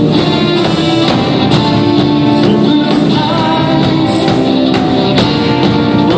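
Rock band playing live, with electric guitar and drum kit at a steady beat.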